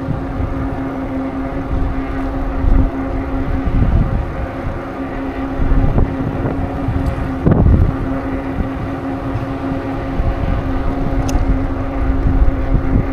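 Wind buffeting the microphone while riding a bicycle, in uneven gusts, over a steady humming tone.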